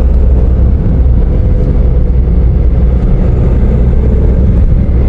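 Steady low rumble of a car driving along the road, heard from inside the moving car: engine and tyre noise.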